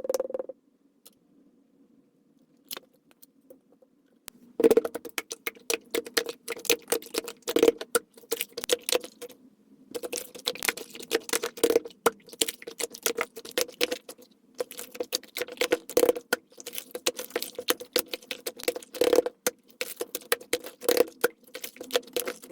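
Rapid, irregular clicking, tapping and rustling of small objects being handled, sped up to four times normal speed, over a steady low hum. It starts about four and a half seconds in, after a few faint ticks.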